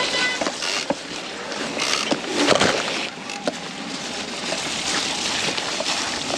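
Mountain bike tyres rolling through mud and puddles on a wet trail, splashing and sloshing, with scattered knocks and rattles from the bike over rough ground.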